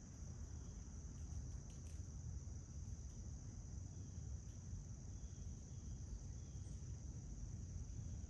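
Outdoor insect chorus, a steady high-pitched drone that runs without a break, over a low background rumble with a few faint clicks.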